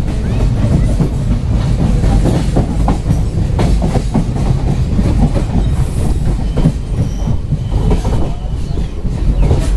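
Train running along the track, heard from on board: a loud, steady low rumble with irregular knocks and rattles of the wheels and carriage.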